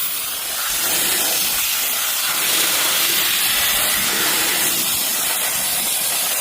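Portable air blower running at full blast, a loud steady rushing hiss of air being blown over an excavator engine to clear out dust.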